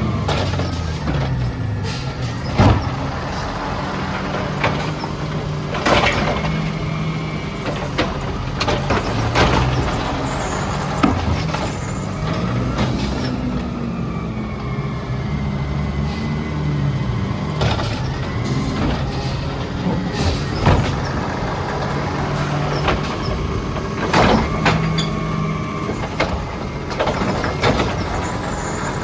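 Peterbilt 320 trash truck's diesel engine running, its pitch rising and falling with the revs. Sharp knocks and bangs come every few seconds, along with air-brake hisses.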